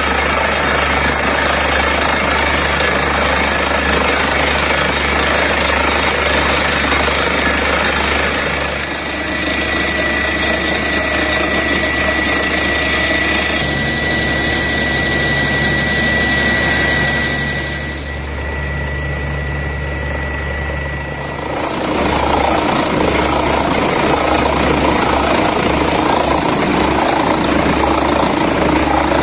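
Borewell drilling rig and its air compressor running hard, a loud steady mechanical noise with a thin high whine through the middle, easing off for a few seconds near two-thirds of the way through before picking up again.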